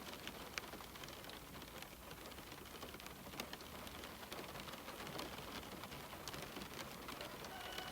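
Steady rain on a window, an even hiss with many small, sharp drop ticks on the glass.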